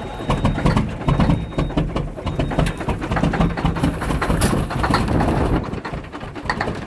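Caterpillar 3406E inline-six diesel on a cold start, cranking and firing raggedly with an uneven pulsing beat, struggling to settle.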